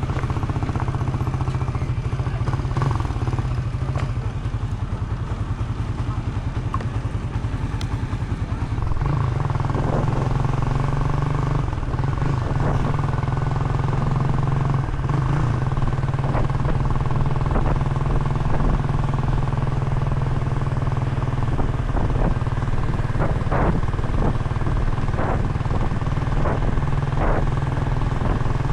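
Motorcycle engine running steadily under way. Its low hum dips for a few seconds early on and then picks up again, with scattered small clicks and rattles over it.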